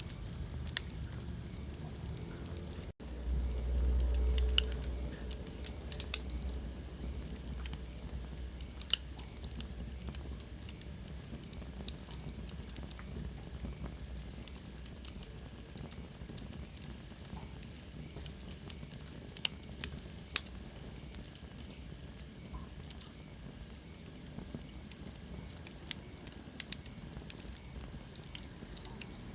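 Wood fire burning in a fireplace: irregular sharp crackles and pops over a steady low rumble of the flames. A brief dropout about three seconds in is followed by a louder low rumble for a second or so, and a faint high whistle falls in pitch about two-thirds of the way through.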